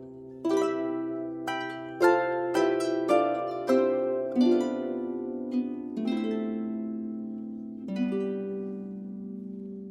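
Solo harp playing: a run of plucked notes in the first half, then slower notes left to ring and fade.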